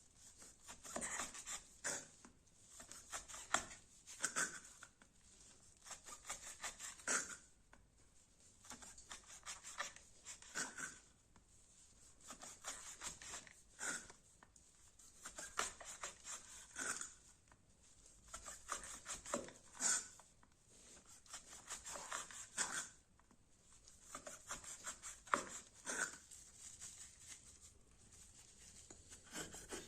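Fixed-blade knife cutting wood in repeated short scraping strokes, coming at uneven intervals of one to a few seconds.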